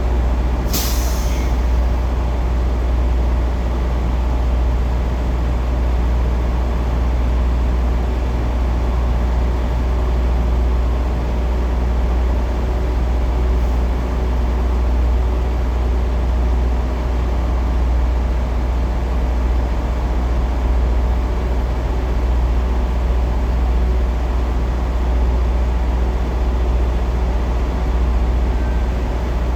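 Semi-truck diesel engine running steadily with a deep, even rumble. A short hiss of air sounds about a second in.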